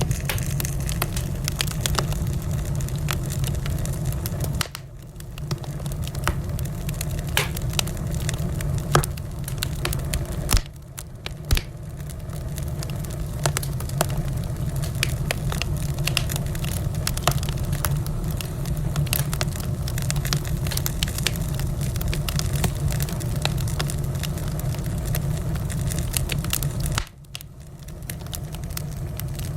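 Wood fire in a fireplace crackling, with frequent sharp pops and snaps over a steady low rumble of burning. The whole sound drops suddenly three times and builds back up over a second or two.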